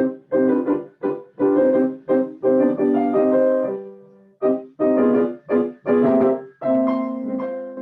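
Piano playing an excerpt of a piece, heard through an older webcam's built-in microphone with Zoom's audio processing on (original sound off). The notes come in short groups that cut away to silence between them, and a final chord rings on, fading near the end.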